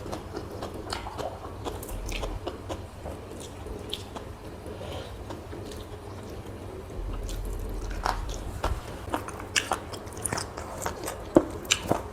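A person chewing and biting food close to the microphone: many short, sharp mouth clicks and smacks over a low hum, getting busier and louder in the second half.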